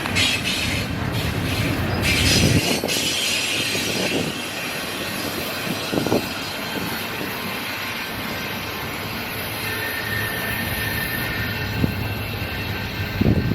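A train rolling past, its wheels running on the rails with a steady rush. High-pitched wheel squeal sounds in the first few seconds.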